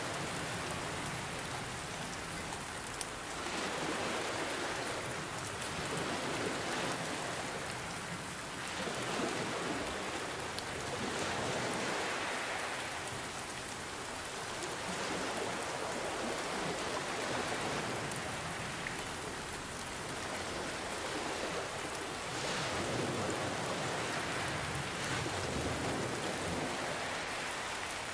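Steady rain falling, mixed with ocean waves that swell and wash in every few seconds.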